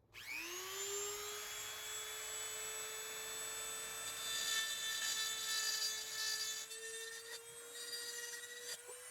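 A small high-speed rotary tool spins up just after the start, its whine rising quickly to a steady pitch, then runs with grinding noise as its bit cuts and widens an oil passage in an engine block.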